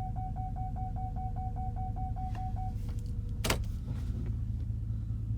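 Chevy Silverado's park-assist proximity warning beeping rapidly, about five short beeps a second at one pitch: the truck's rear is close to an obstacle. The beeping stops a little under three seconds in, a sharp click follows about a second later, and the engine idles underneath throughout.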